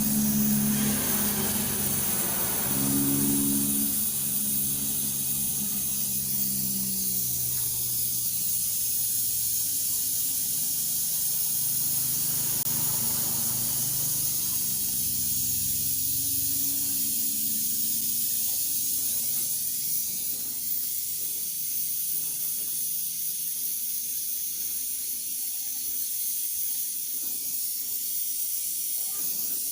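Steady hiss of escaping pressurised gas, with a low mechanical hum in the first half that fades away.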